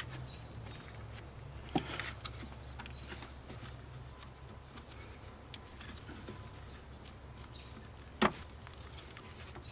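Hands working at engine wiring: scattered light clicks and handling noises, with two sharper clicks, one about two seconds in and one near the end, over a low steady hum.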